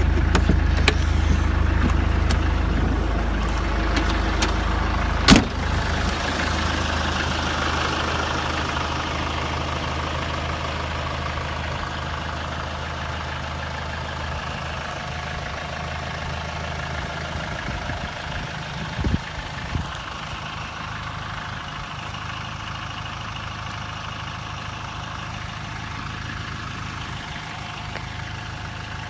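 Vehicle engine idling with a steady low hum, with a sharp knock about five seconds in and two softer knocks near the end.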